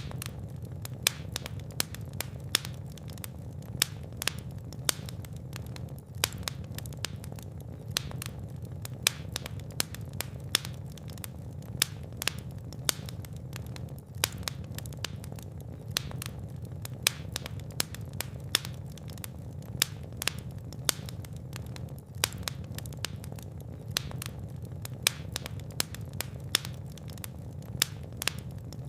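Fireplace fire crackling, with frequent sharp, irregular pops and snaps over a steady low rumble of burning flames.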